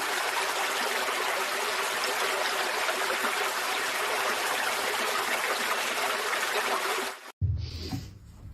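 Steady rush of running water, as from a tap or shower, with a faint hum under it; it cuts off suddenly about seven seconds in, and a quieter low rumble follows.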